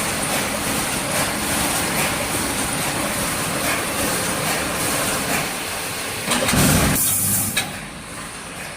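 Automatic wire mesh welding machine running with a steady mechanical clatter and a regular stroke about every second. A louder, deeper burst about six and a half seconds in, after which the noise drops away.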